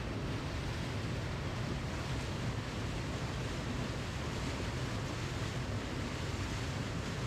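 Waterfall: a steady, unbroken rush of falling water, heaviest in the low end, with no change in level.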